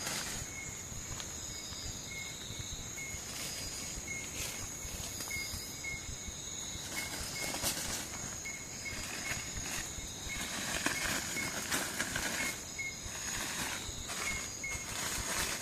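Night rainforest insect chorus: several steady high-pitched buzzes, with a short note repeated evenly over and over. A few faint rustles come and go, louder between about ten and twelve seconds in.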